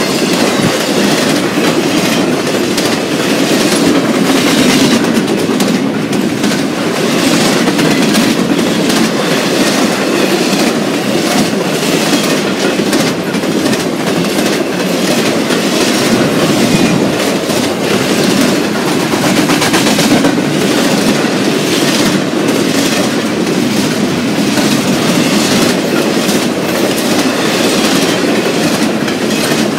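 Cars of a fast BNSF intermodal freight train rolling past: a steady loud rush of steel wheels on rail with frequent clickety-clack over the joints.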